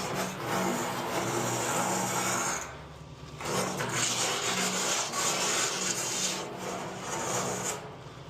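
Septic pump truck's vacuum hose sucking sludge and solid chunks out of a septic tank: a loud noisy suction in two long stretches with a short break about three seconds in, over the steady hum of the running truck.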